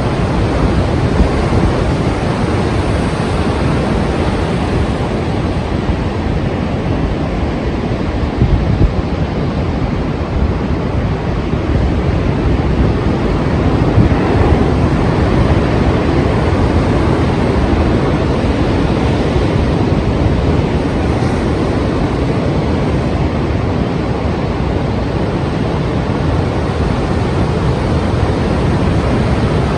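Strong sea surf: waves breaking as a steady rushing noise that swells slightly about halfway through.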